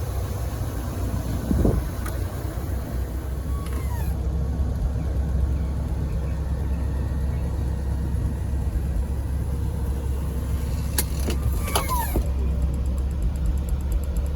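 1986 Chrysler LeBaron convertible being driven, its engine and road noise making a steady low rumble, with a few faint clicks and squeaks about three-quarters of the way through.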